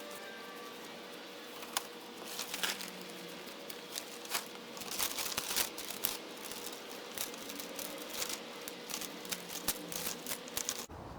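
6-mil plastic sheeting crinkling as it is handled and rolled, a run of irregular sharp crackles.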